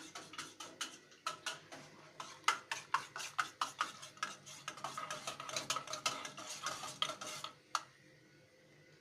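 A spoon stirring milk and cocoa in a cezve, clinking quickly against the pot's sides about three or four times a second. It stops near the end.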